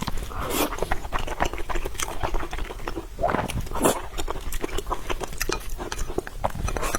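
Close-miked eating of spicy noodles and fried pork tendon: rapid wet chewing and biting with many small clicks, and a couple of longer noisy mouth sounds about three and a half seconds in.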